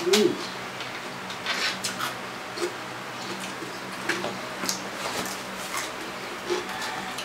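Close-up eating sounds: chewing, lip smacks and moist mouth clicks, with a few short crunches as raw cucumber slices are bitten and the occasional spoon tap.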